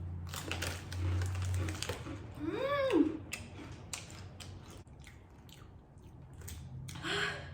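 Close-up crunching and chewing of mini Takis Fuego rolled tortilla chips, with a short vocal sound that rises and falls in pitch about two and a half seconds in.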